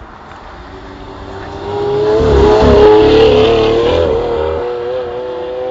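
Car engine running hard at high revs, its pitch held high with a slight climb. It builds up loud about two seconds in, peaks around the middle, then eases off somewhat.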